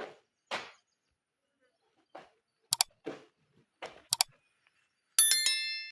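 A few short scraping strokes and sharp metallic clicks, then near the end a bright metallic ring, like struck steel, that fades over most of a second.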